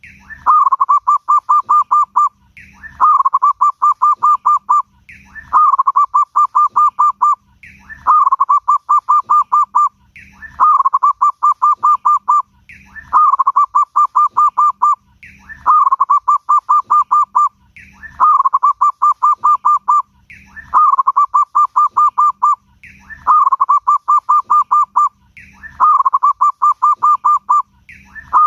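Zebra dove (perkutut) in full song, repeating one phrase about every two and a half seconds, eleven times. Each phrase is a short rising note followed by a quick rolling run of coos.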